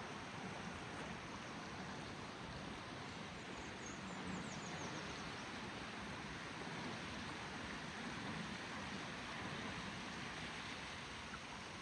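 River water flowing steadily, an even rushing sound. A bird gives a short run of faint high chirps about four seconds in.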